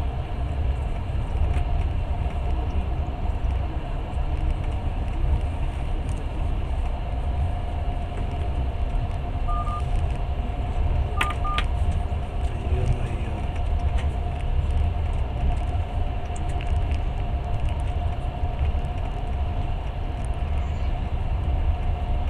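Passenger train running along the track, heard inside the carriage as a steady low rumble with a constant hum. A few short electronic beeps sound about halfway through.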